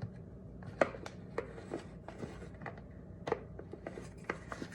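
Light, irregular plastic clicks and knocks as the lid is fitted onto a Pampered Chef Deluxe blender's smoothie cup, with a few louder taps about a second in and again past three seconds.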